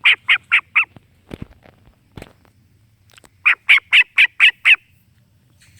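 A starling calling in two quick runs of short repeated notes, about five at the start and six more about three and a half seconds in.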